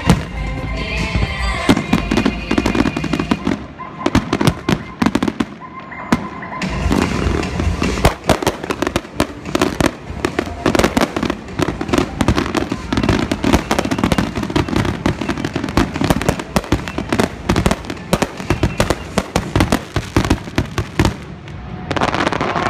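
Professional fireworks display: a dense barrage of aerial shell bursts and rapid reports, many bangs a second with crackling, easing off near the end. Music is heard under the first two seconds.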